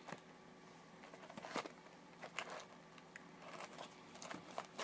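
Faint scattered rustles and light taps of a sealed trading card box being handled.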